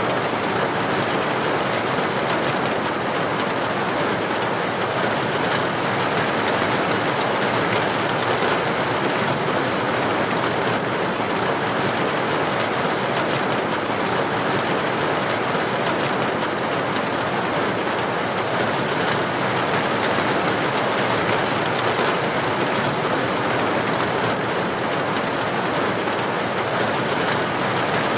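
Heavy rain pouring steadily onto a street, a dense, even hiss of drops with no thunderclap.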